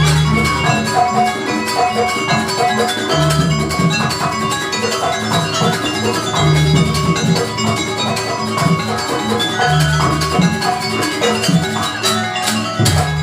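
Live jaranan accompaniment music: a gamelan-style ensemble with busy metallic pitched percussion over drums, and a deep low stroke recurring about every three seconds.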